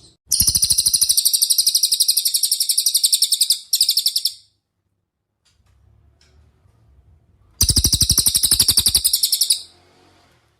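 Cililin singing: a long, very rapid, high-pitched trill of about a dozen notes a second, a short extra burst, then after a pause a second trill of about two seconds.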